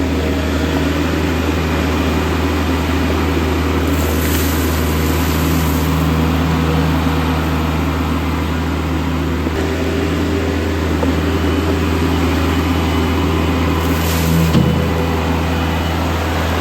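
Kubota tractor's diesel engine running steadily as it picks up washed-out driveway gravel, a constant low drone.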